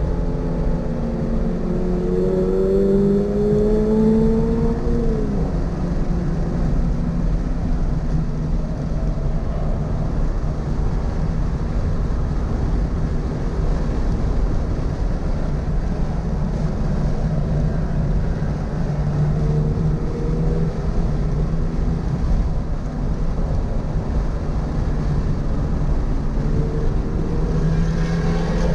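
Toyota GR86's 2.4-litre flat-four engine at speed on track: it revs up for about five seconds, drops sharply, runs at a steadier lower pitch with road and wind noise, and climbs again near the end.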